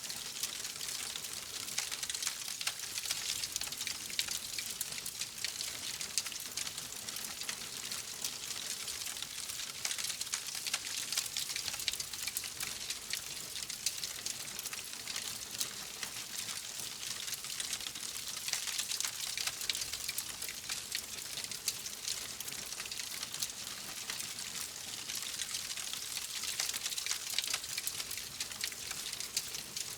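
Wood fire crackling in a fireplace: a steady hiss of dense small crackles and pops, with no change in pace.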